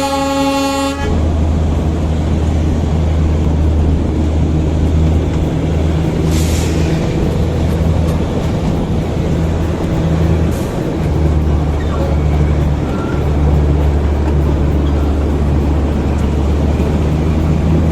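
Diesel locomotive horn of the narrow-gauge toy train, ending about a second in. Then the train runs on with a steady low engine rumble, and two brief hisses come around six and ten seconds.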